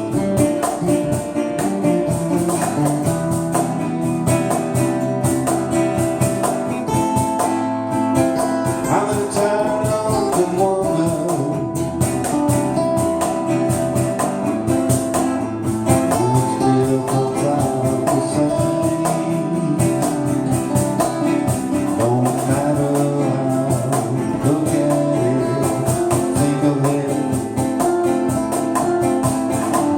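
Music: a band playing with guitar in front and a tambourine keeping steady time.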